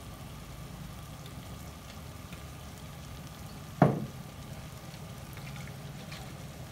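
Chicken wings and liver frying gently in a wok over a steady low hum, with one sharp knock about four seconds in.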